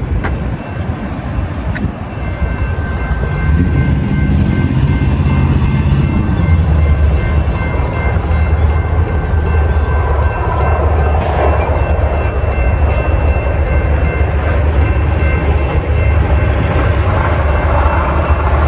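Metra inbound express train running through the station at speed without stopping: the heavy rumble of the diesel locomotive and cars builds about three and a half seconds in and holds. Steady high ringing tones, typical of a grade-crossing bell, sound over the train.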